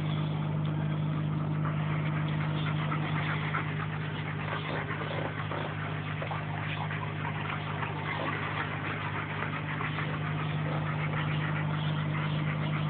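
A 2003 Buick LeSabre's 3.8-litre V6 idling steadily.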